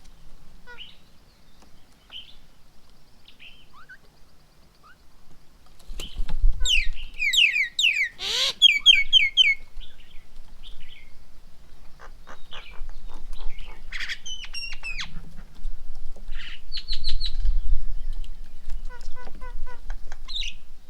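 Several birds calling and chirping at a feeding table, with varied short whistles and chirps. The loudest is a fast run of sharp, falling chirps from about six to nine seconds in, with a low rumble underneath at times.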